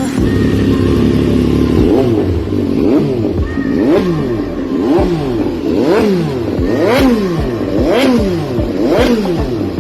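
A superbike's engine being revved in repeated throttle blips, the pitch climbing and dropping back about once a second.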